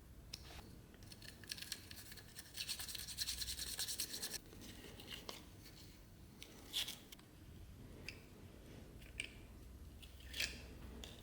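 A hand tool or stiff brush working a small object in quick, even strokes for about three seconds, then a few separate sharp ticks and taps.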